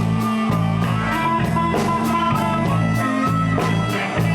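Live blues band (electric guitars, bass guitar and drum kit) playing the instrumental riff between sung lines of a slow blues, with steady bass notes and regular drum hits under sustained guitar notes.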